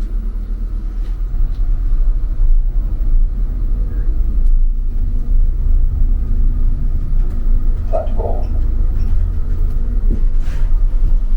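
Steady low rumble of a vehicle in motion heard from inside, with a couple of brief higher squeaks about eight seconds in.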